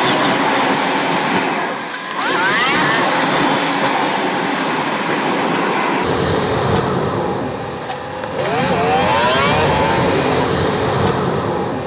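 A road vehicle driving, with steady road noise. Twice an engine note climbs in pitch as it accelerates: once about two seconds in, and again from about eight seconds in as a few rising steps.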